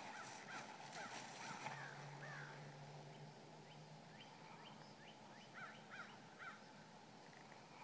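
Faint birds chirping over near silence: short, quick repeated chirps in two runs, one near the start and another past the middle.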